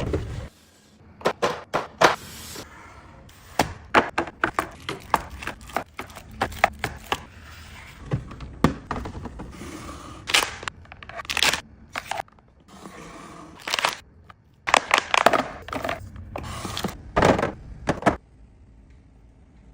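Groceries being handled and put away in a fridge: a run of clunks, taps and clicks as items are set down, with rustling and scraping between them.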